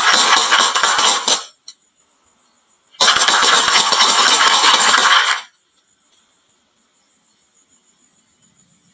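Many marbles clattering and rolling down a wooden marble run, in two loud spells of about two and a half seconds each with a pause between, then it goes quiet.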